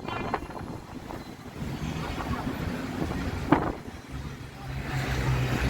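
Street traffic with wind buffeting the microphone, and a single sharp click about three and a half seconds in. A vehicle's steady engine hum comes in near the end.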